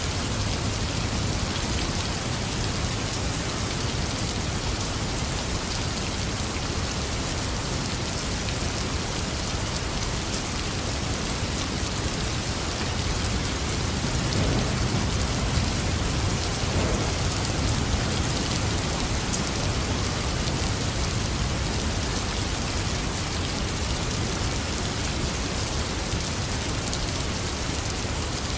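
Heavy rain falling steadily. About halfway through, a low rumble of thunder swells and fades.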